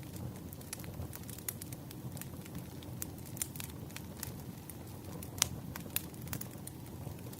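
Wood fire burning, with a steady low rumble of flames and frequent scattered sharp crackles and pops; the loudest pop comes about five and a half seconds in.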